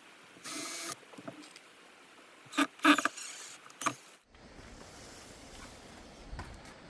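A short scrape with a faint ringing tone, then a few sharp knocks of hard objects, the loudest about three seconds in, followed by a low outdoor rumble.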